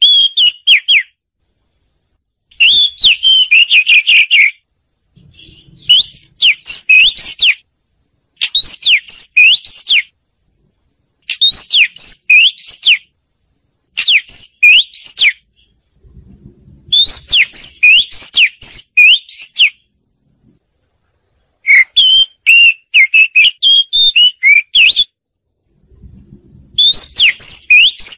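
Oriental magpie-robin song: loud, rapid whistled phrases full of quick rising and falling notes, each lasting one to three seconds, repeated about nine times with short pauses between.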